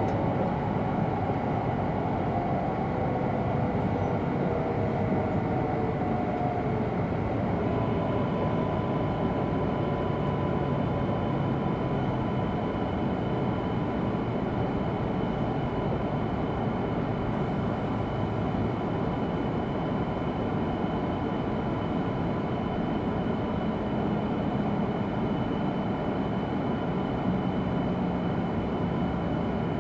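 Cabin running noise of an E2 series Shinkansen: a steady rumble with hiss, with a faint motor whine gliding down in pitch over the first several seconds, then a steady high hum.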